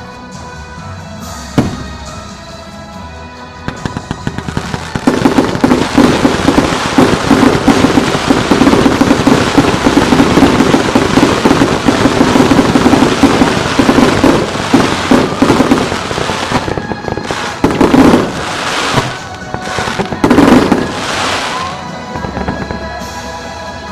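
Fireworks display: a single bang early, then from about five seconds in a dense barrage of rapid bangs and crackling for about ten seconds, followed by two loud bursts near the end, over background music.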